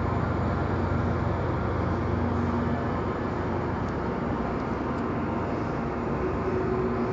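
Train rumbling steadily, with a low hum underneath.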